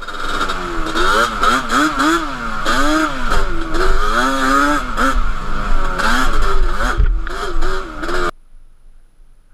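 Yamaha Banshee 350 twin-cylinder two-stroke engine with Toomey T5 expansion pipes, revving up and down over and over as the throttle is worked, until it cuts off suddenly about eight seconds in.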